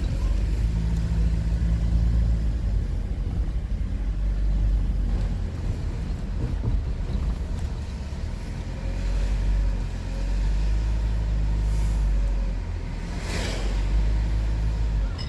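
Car on the move: a steady low road and engine rumble, with a short rushing noise about thirteen seconds in.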